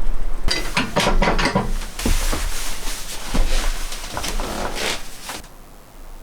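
Wooden knocks, scrapes and rattles of boards or cabinet parts being handled and fitted, for about five seconds before they stop. A low hum runs under the first part.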